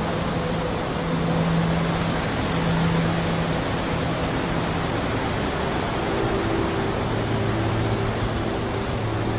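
Steady rushing noise of a storm's wind and rain, with a faint low hum underneath that drops in pitch about halfway through.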